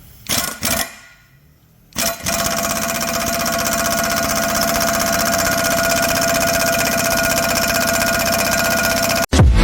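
Two short knocks, then a loud, steady mechanical rattle with a constant whine running through it, which cuts off abruptly near the end.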